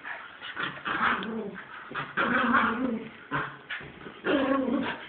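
Dog whining and crying out in short pitched bursts, with scuffling, while tugging to keep hold of its ball.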